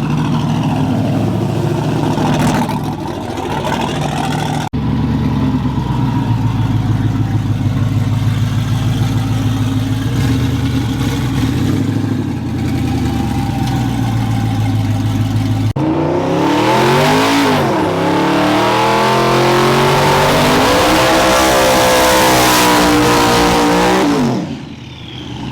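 Twin-turbo V8 drag trucks rumbling steadily at the line. After a cut, a truck launches and accelerates hard down the strip, its engine pitch climbing, dipping once at a gear shift and climbing again, before the sound falls away near the end.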